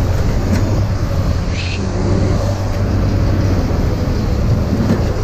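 Motor vehicle driving: a steady, loud low engine and road rumble.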